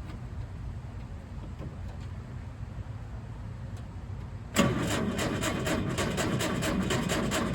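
Cold start of a 1963 Volkswagen Beetle's air-cooled flat-four: a low background hum, then about four and a half seconds in the starter engages and the engine cranks with a fast, even rhythm.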